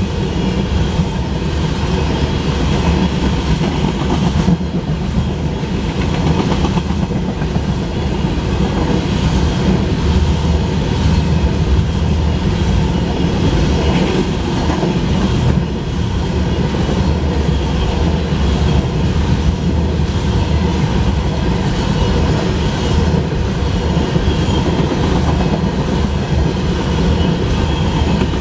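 Empty freight-train tank cars rolling past: a steady, loud rumble of steel wheels on rail with clickety-clack from the wheels over the joints.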